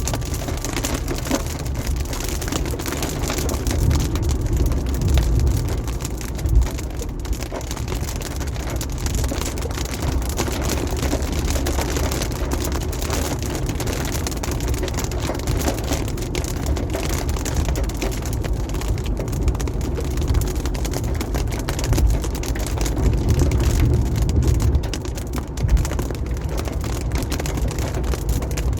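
Car driving on a wet highway in the rain: steady road noise from tyres on the wet surface and rain, with a deep rumble underneath. The noise swells twice, and there are two short thumps.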